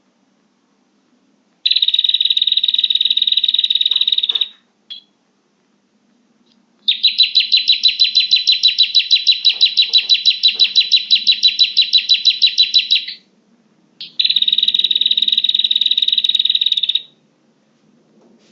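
Prenjak (prinia) lure call: three bouts of rapid, high, buzzy trilling with short gaps between them, the middle bout the longest and pulsing about eight times a second.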